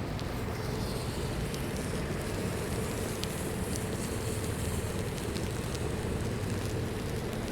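Steady city street noise in a snowstorm: low traffic rumble under a constant hiss, with a few faint ticks.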